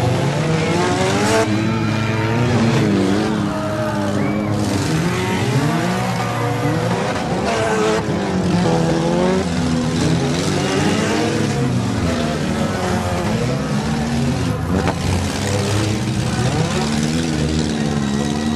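Several demolition derby car engines revving hard together, their pitches rising and falling as the cars accelerate and collide. A couple of sharp crashes of cars hitting each other cut through.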